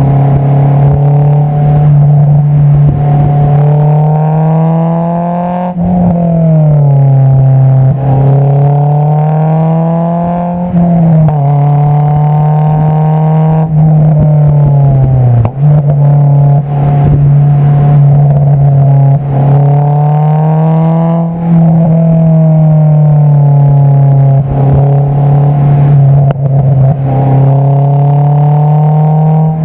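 Honda S2000's four-cylinder engine through an Invidia Q300 cat-back exhaust, heard close at the tailpipe while driving. The exhaust note climbs steadily with revs and drops abruptly several times, as at gear changes under brisk acceleration.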